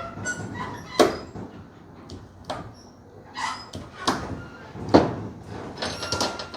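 A series of sharp knocks and thumps, the loudest about a second in and again around four and five seconds, with lighter clicks and clatter between them and near the end.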